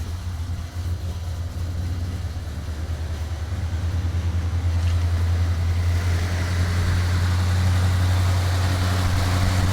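V8 engine of a 1974 Chevrolet Monte Carlo with HEI ignition running steadily at idle, growing louder over the first several seconds. It is running again now that the faulty distributor wire has been dealt with.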